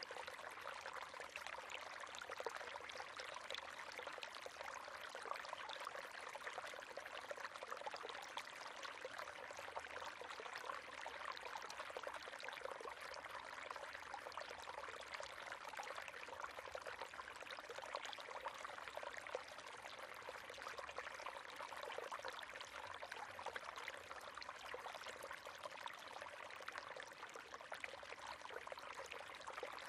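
River water flowing steadily over stones, a continuous splashing, gurgling rush with a fine, bright texture.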